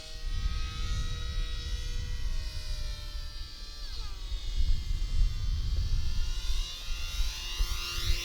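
Small electric coreless motors and propellers of a WLtoys F949 RC Cessna whining in flight. The pitch drops sharply about halfway through and again near the end as the throttle is eased. Wind rumbles on the microphone underneath.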